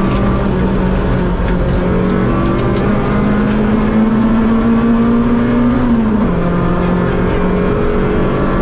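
Rally car engine heard from inside the cockpit while driving a stage, with steady road noise underneath. Its pitch climbs slowly for a few seconds, falls back about six seconds in, then holds steady again.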